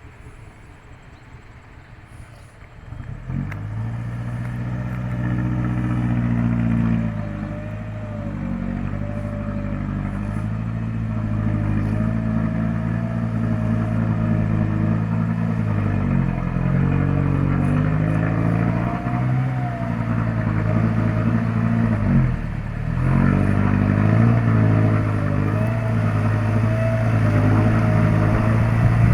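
Mitsubishi Canter truck's diesel engine pulling hard under load on a steep climb. It comes in about three seconds in, rising and falling in pitch with a wavering whine above it, and eases off briefly twice, around the middle and about two-thirds through.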